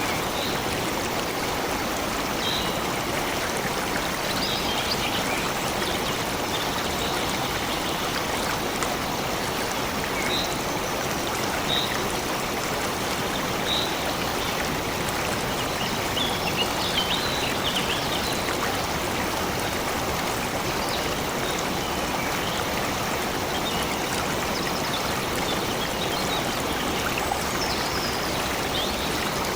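Stream water running steadily, with a few faint, short, high bird chirps scattered over it.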